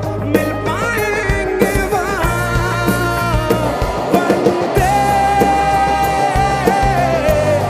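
Rock band playing live: drums and bass under a held, gliding melodic line, with a long high note held through the second half.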